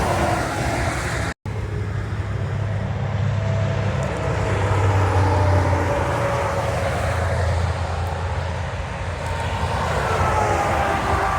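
Big trucks passing on the interstate: steady highway noise with a deep engine drone and a tyre whine that slowly falls in pitch as each rig goes by. The sound cuts out for an instant about a second and a half in.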